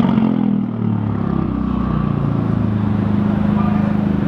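Single-turbo 2JZ inline-six in a Nissan 240SX running; its pitch drops over the first second and then settles to a steady idle.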